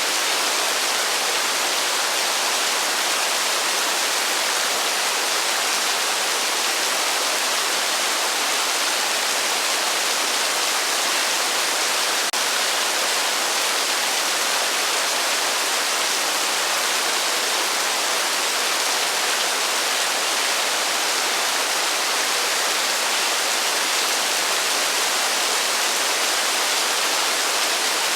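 Heavy rain falling steadily, with no thunder: a dense, even hiss that never changes in level.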